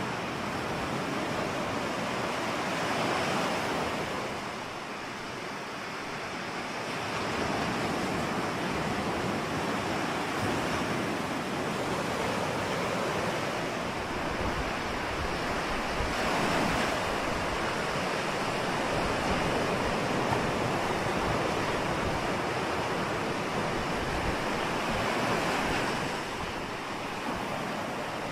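Ocean waves washing onto a shore, a continuous rush of surf that swells and ebbs slowly every several seconds.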